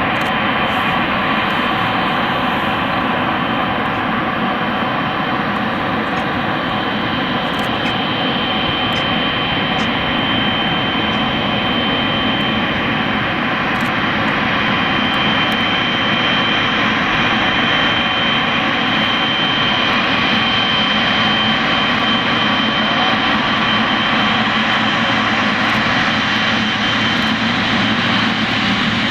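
Boeing 777-300ER's twin GE90 turbofan engines running steadily, a dense jet rush with a high steady whine.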